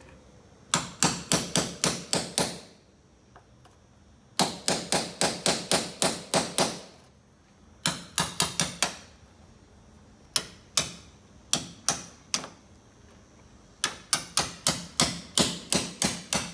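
Hammer striking a cold chisel to cut off a stubborn rivet on an aluminium caravan panel: loud runs of quick, sharp metal blows, about four a second, broken by short pauses.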